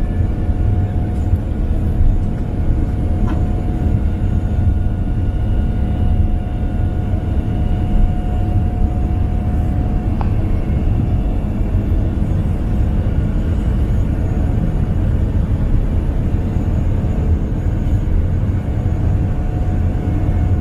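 Boeing 787-10 airliner's jet engines at takeoff power: a steady deep rumble with a thin steady whine above it.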